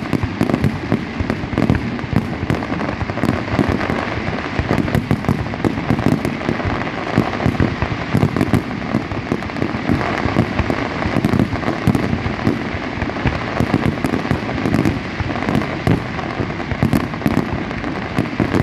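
Fireworks display in a dense, continuous barrage: loud bangs and booms overlapping with rapid sharp crackling, with no break.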